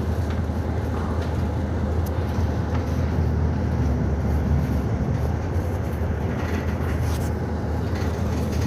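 City bus heard from inside the passenger cabin: the engine and drivetrain give a steady low drone, with a few faint rattles.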